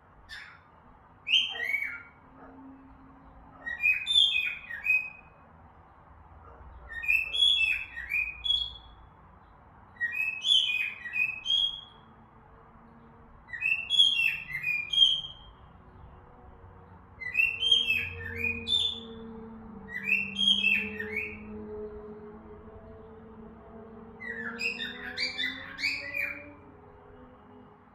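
Cockatiel whistling and chirping in short bursts, repeating the same phrase roughly every three seconds.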